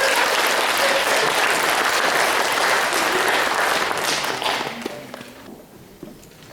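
Concert audience applauding, the clapping fading away after about five seconds.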